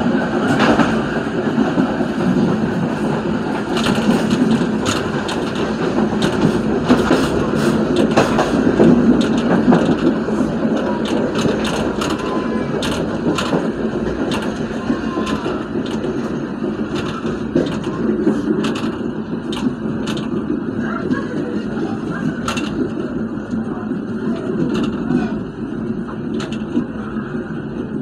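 Train running along the track, heard from its rear cab: a steady rumble of wheels on rail, with many sharp clicks and rattles.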